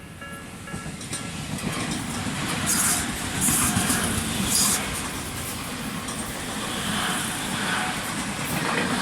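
A train passing over a Tobu Tojo Line level crossing, its running noise building from about a second and a half in, with a few short, sharp high hisses in the middle. Under it, at the start, the crossing's electronic alarm (Tobu type B, Nikko type) repeats its tones before the train drowns it out.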